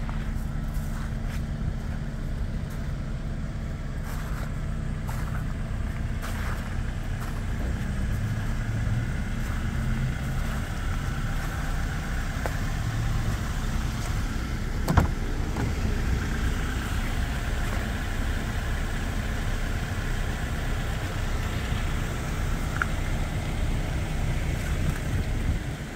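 Steady low hum of a vehicle engine idling, with outdoor noise over it and one sharp click about halfway through.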